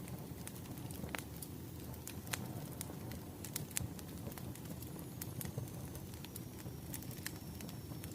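Wood fire crackling: a steady low rumble of flames under irregular sharp pops and snaps. A faint high thin tone slowly falls in pitch during the second half.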